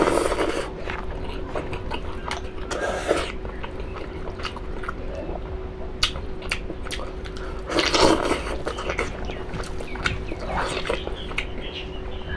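Close-up eating sounds: chewing and wet mouth clicks while eating beef innards, with a few louder breathy bursts.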